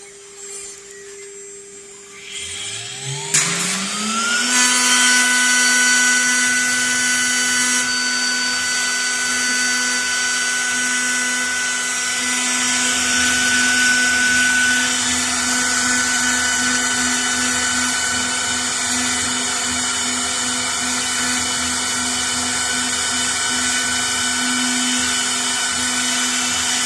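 Spindle of a 6090 CNC router spinning up with a rising whine a little over two seconds in, then running steadily at speed as it engraves MDF board.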